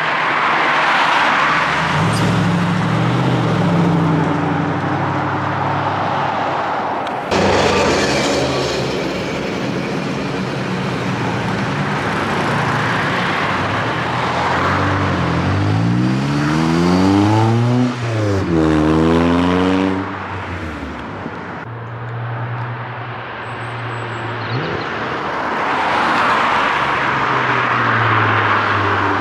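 Cars driving past with their engines running over road noise. About halfway through, one car's engine revs up twice in close succession, its pitch rising each time, then settles back.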